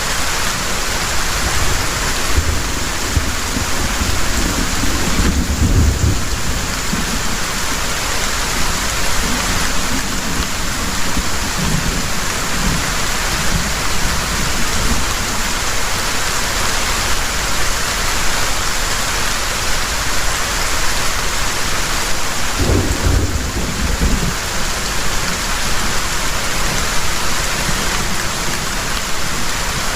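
Heavy rain falling steadily, with low thunder rumbling twice: a longer roll a few seconds in and a shorter one a little past twenty seconds.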